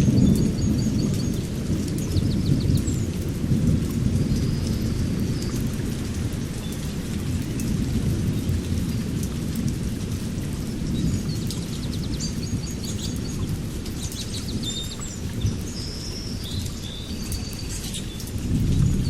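Thunder rumbling low and continuously, swelling about a second in and again near the end, with small birds chirping short trills over it.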